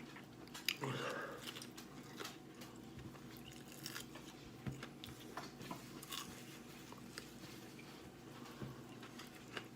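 Someone chewing and biting into fried chicken wings, with scattered soft crunches and mouth clicks and a brief murmur about a second in.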